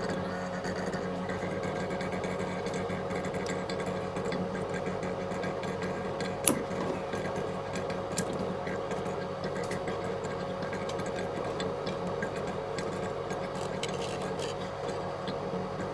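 A small motor-driven machine running steadily with an even hum, with two sharp clicks a little before and after the middle.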